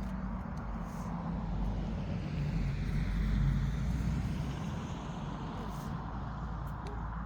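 A motor vehicle passing by, its low rumble growing louder to a peak about halfway through and then fading away.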